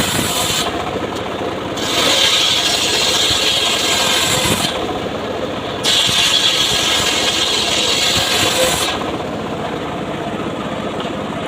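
Homemade circular saw cutting mahogany in three stretches separated by short breaks, with a duller sound in the breaks and through the last couple of seconds.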